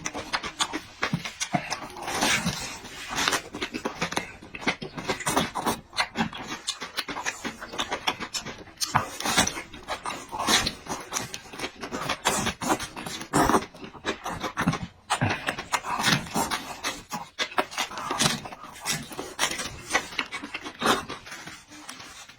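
Close-up eating sounds from a person: wet chewing and mouth smacking in quick, irregular clicks, with heavy breathing between bites.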